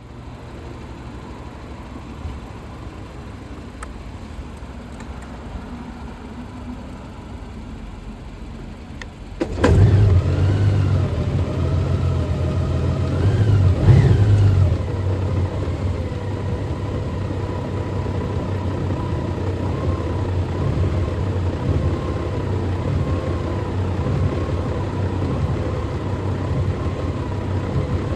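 Honda Gold Wing motorcycle engine starting: a steady low hum, then about nine seconds in the engine fires and catches, is revved briefly a couple of times, and settles into a steady idle.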